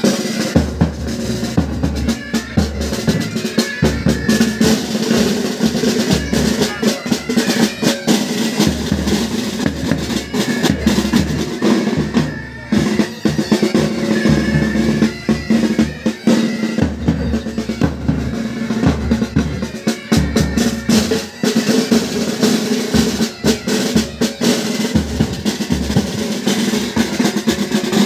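Military pipe band playing. The side drums play rolls and rapid snare strokes over bass drum beats, with the bagpipes sounding beneath.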